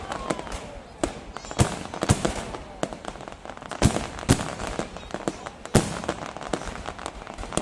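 Fireworks going off: a dense run of irregular bangs and pops, with about five much louder reports spaced roughly a second or two apart and many smaller pops between them.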